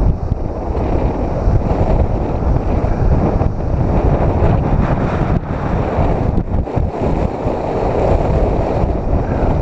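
Strong wind buffeting the microphone over ocean surf breaking on a rocky shore, a loud, steady rush.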